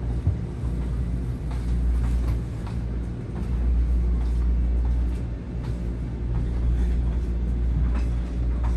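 Metro-North M7A electric railcar heard from inside the car: a steady low hum and rumble, with a few faint clicks and knocks.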